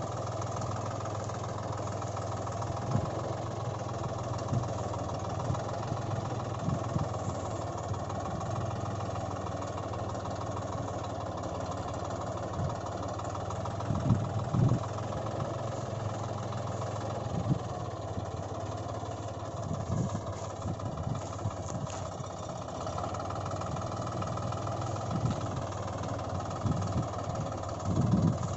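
A vehicle engine idling steadily, with a few short low thumps along the way.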